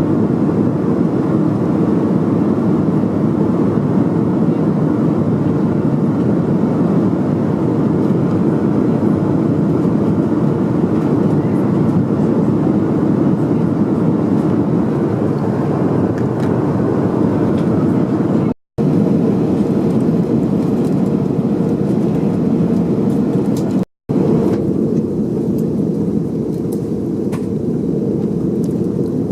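Steady cabin noise inside an Airbus A321-200 in flight, the even rush of the jet engines and airflow heard from an economy seat. It cuts out twice for a split second, about two-thirds of the way through and again a few seconds later.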